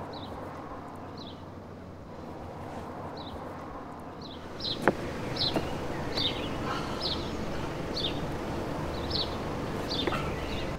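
A bird chirping over and over in short, high, falling notes, about one or two a second, louder in the second half, over steady outdoor background noise. A single sharp tap comes just under five seconds in.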